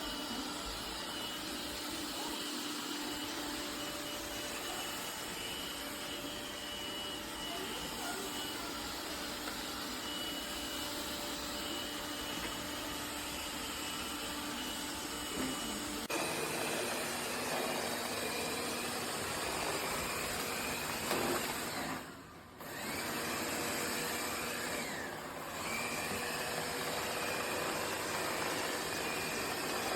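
Robot vacuum cleaner running steadily, its suction motor giving a steady hum with a faint whine; the sound changes about halfway through and briefly dips twice near the end.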